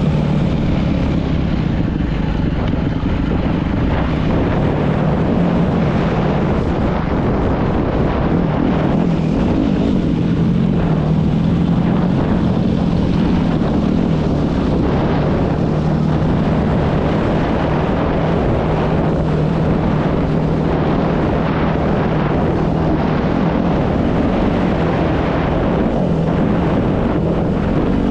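Dirt bike engine running steadily while riding, its pitch wavering a little with the throttle, with wind buffeting the microphone.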